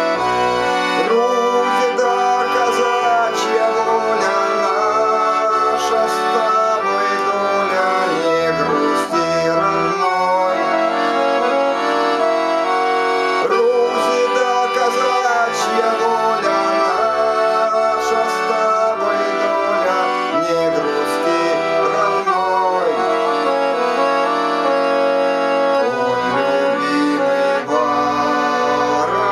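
Accordion playing a Cossack folk song melody over a steady accompaniment of low bass notes.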